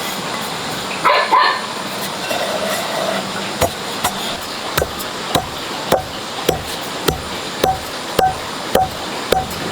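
Steady rhythmic pounding in the kitchen, starting a few seconds in, about two hard strokes a second, each with a short ring.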